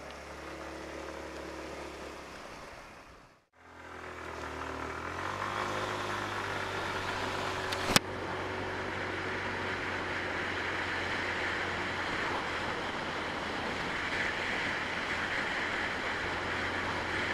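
Sinnis Shuttle's engine idling; after a short break about three seconds in, it pulls away and runs steadily at road speed, with wind and road noise over it. A single sharp click about halfway through.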